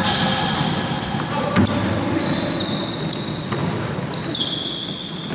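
Basketball game sounds: a ball bouncing on the court and players' sneakers giving short, high-pitched squeaks over and over.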